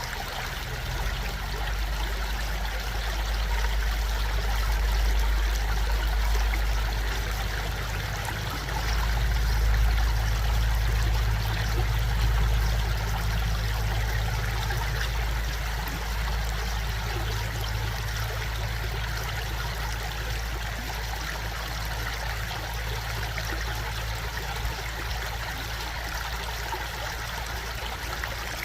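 Running stream flowing steadily, with a deep low rumble underneath that swells and eases a couple of times.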